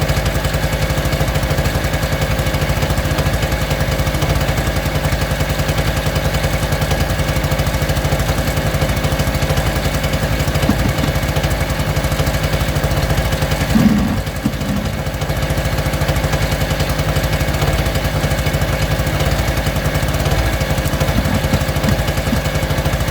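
Small two-stroke engine running steadily at a constant speed, with a brief dip in level about 14 seconds in.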